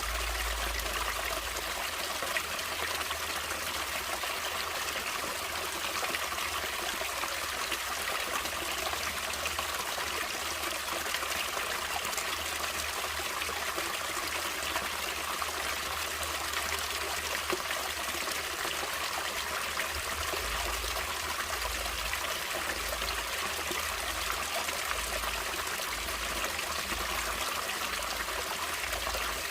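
Stream water flowing and trickling steadily over rocks, an even splashing rush with no change in intensity.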